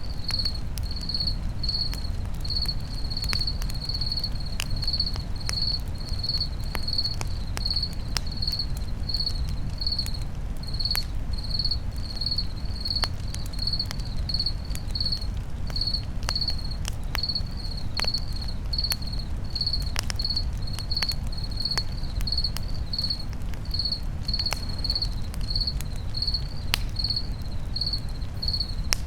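Crickets chirping steadily, about two chirps a second, over the crackle and pop of a campfire with a low rumble of burning.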